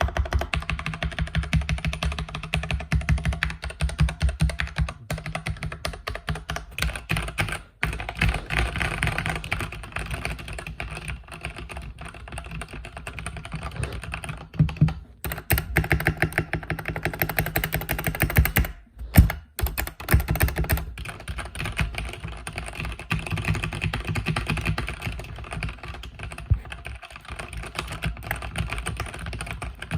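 Mechanical keyboard with red linear switches being typed on continuously, a fast stream of keystrokes with a few brief pauses, about 8 and 19 seconds in.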